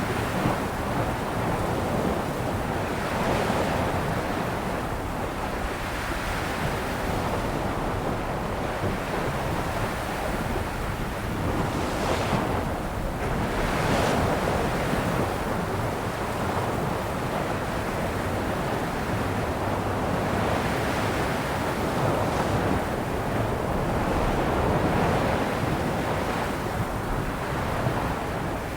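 Sea waves washing onto the shore: a continuous surf that swells and ebbs, with two louder breaking waves about halfway through.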